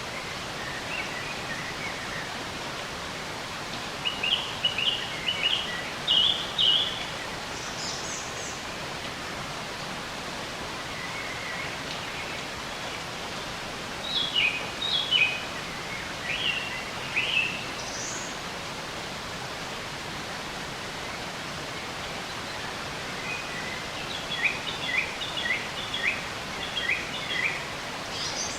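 Songbirds singing in short trilled chirping phrases, three main bouts of several quick notes each, over a steady hiss of running water or rain.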